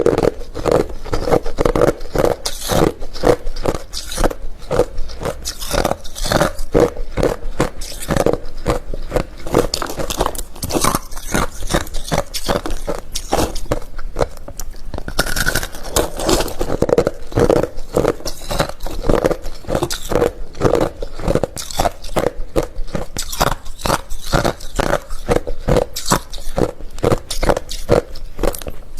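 Close-miked chewing of hard refrozen crushed ice: a continuous run of sharp crunches, several a second, with no pauses.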